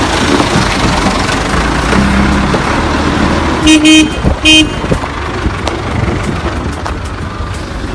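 A vehicle horn honks twice in quick succession, about four seconds in, over steady traffic and engine noise.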